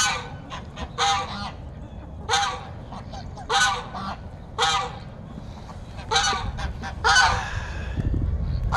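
Domestic geese honking repeatedly, about seven short honks spaced roughly a second apart, the last one drawn out a little longer.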